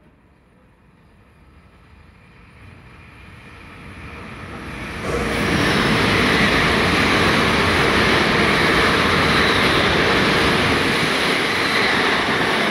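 Hitachi Class 801 Azuma electric train passing through a station at speed without stopping: a rushing noise of wheels and air that builds over about five seconds as it approaches. It turns suddenly loud as the front reaches the microphone and stays loud and steady while the coaches sweep past.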